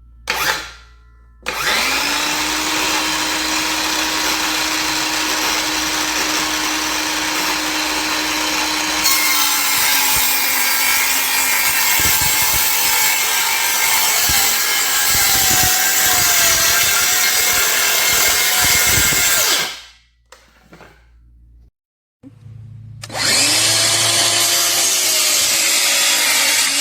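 DeWalt 20V MAX 6-1/2-inch cordless circular saw (DCS391B) spinning up and running steadily, then cutting, its pitch sagging under load. About twenty seconds in it stops abruptly when the trigger is let go, and near the end it spins up again.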